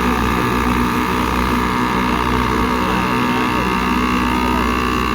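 Several small two-stroke 50cc kids' dirt bikes of the shaft-drive PW50 class running together, their engines revving up and down.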